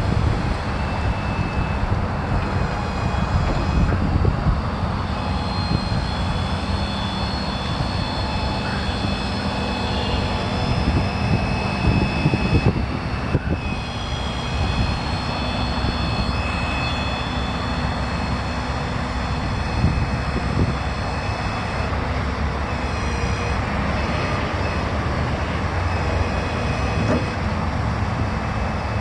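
Ford F550's 6.7 L turbo-diesel engine running steadily, with a high-pitched whine over the low rumble that fades out and returns a few times.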